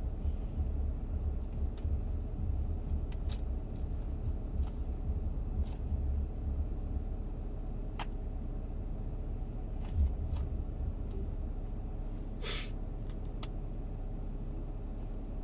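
Low, steady rumble of a Dodge Grand Caravan minivan idling, heard from inside the cabin. Scattered small clicks, and a short hiss about twelve seconds in.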